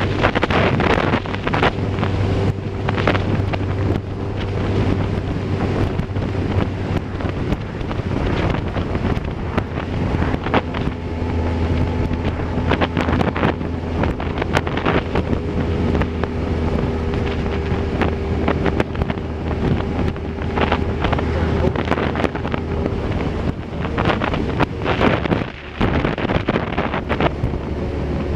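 Wind buffeting the microphone over a steady low engine drone.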